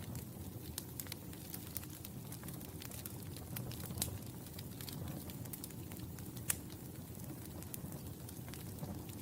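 Fire crackling in a fireplace: a steady low rumble of flames with frequent small pops and two louder snaps, about four and six and a half seconds in.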